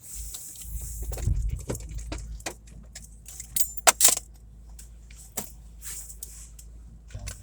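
Keys jangling amid a run of sharp clicks and knocks, loudest about four seconds in, over a steady low rumble.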